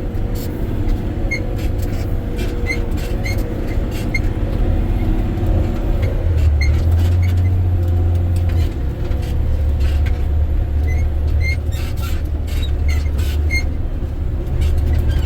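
Volvo A30 articulated dump truck's diesel engine running steadily under load in third gear, heard from inside the cab, its deep drone dipping a little in pitch about halfway through. Rattles, knocks and small squeaks from the cab and body come over the rough haul road throughout.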